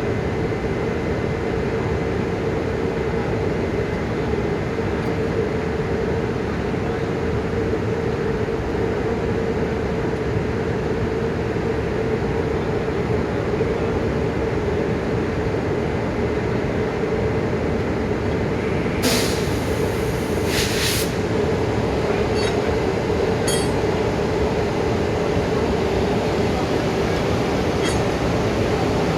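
Railway locomotive running steadily at a standstill with a constant hum, and two short bursts of hissing air about two-thirds of the way through.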